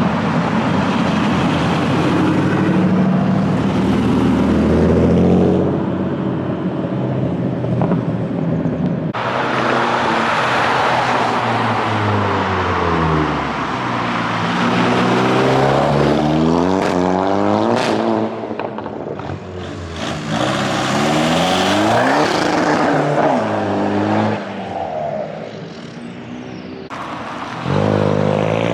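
Several performance cars driving past one after another, their engines revving and accelerating, the pitch rising and falling with each blip of the throttle. The sound changes abruptly twice as one car gives way to the next.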